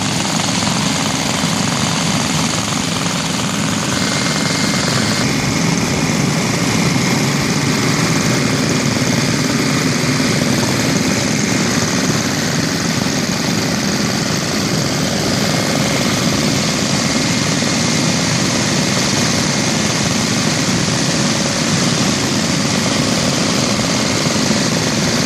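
Some twenty vintage Briggs & Stratton small single-cylinder engines, mostly Model Ns, running all at once: a steady, loud mass of many engines firing out of step with one another.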